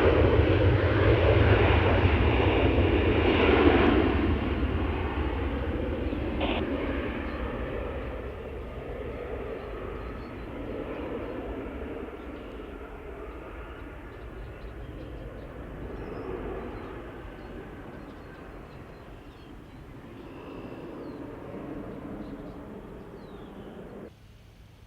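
Airplane engine noise, loud at first and fading steadily as the aircraft moves away, then cut off abruptly just before the end.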